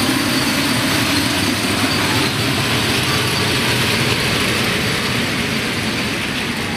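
A freight train of fuel tank wagons rolling past on the rails, its wheels and wagons making a steady, loud noise that fades slightly near the end.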